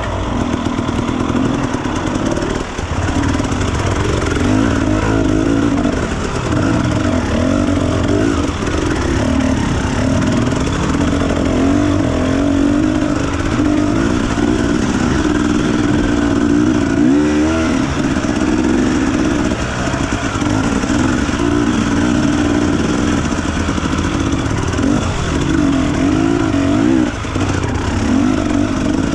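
Enduro dirt bike engine revving up and down continuously as it is ridden, its pitch rising and falling with the throttle.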